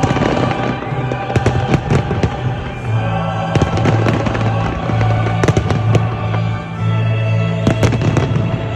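Fireworks going off: many sharp bangs and crackles in quick succession, over music with a steady deep bass note.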